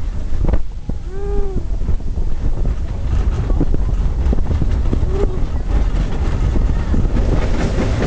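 Wind buffeting the microphone, with handling clicks. A short rising-and-falling call comes about a second in, and a fainter, shorter one around five seconds.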